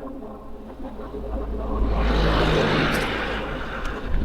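A car passing, its tyre and engine noise swelling up, loudest around the middle, then fading away.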